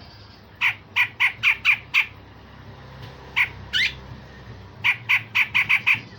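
Cucak jenggot (grey-cheeked bulbul) giving harsh, rasping calls: a quick run of six at about four a second, two single calls (the second rising), then another run of six. This is the rough 'besetan' call that bird keepers play to train songbirds.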